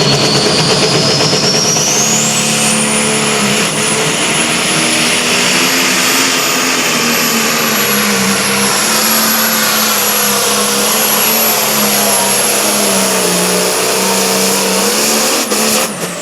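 Competition pulling tractor's diesel engine at full throttle, hauling the sled down the track. A high whine climbs over the first few seconds and then holds steady, and the engine drops off near the end.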